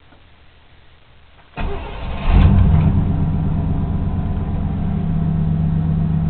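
1993 Chevy Silverado's 5.7-litre 350 V8 cold-started: about a second and a half in, the starter cranks briefly, then the fuel-injected engine catches with a short rev flare and settles into a steady idle.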